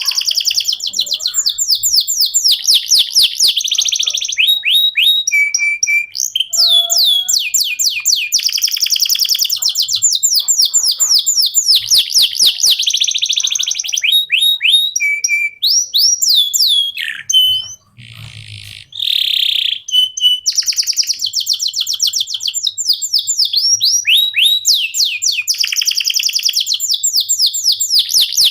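Male canary singing a long, unbroken song of fast trills and quick rising whistled notes, with a short break about two-thirds of the way through.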